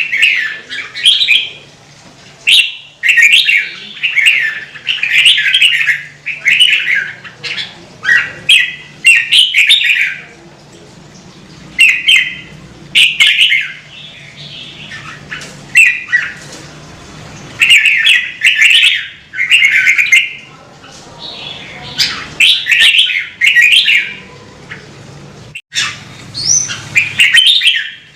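Red-whiskered bulbul singing: a run of loud, short warbling phrases, each about a second long, with brief pauses between them.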